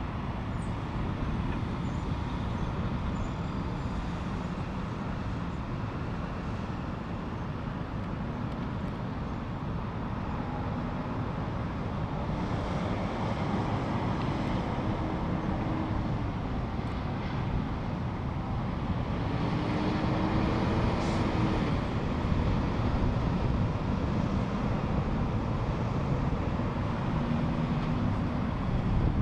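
Freeway traffic noise: a steady rumble of vehicles with engine hum and tyre noise, as vehicles pass a little louder about halfway through.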